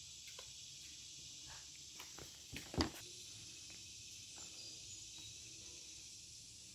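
Faint handling sounds: a few soft clicks and a short knock just before three seconds in, over a steady high hiss.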